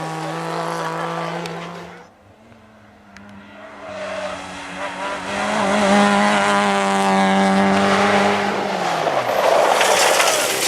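Rally car engines at full revs. One engine note holds steady, then cuts off after about two seconds. After a brief lull another car grows louder, passes with its pitch dropping about nine seconds in, and is followed by a rush of noise.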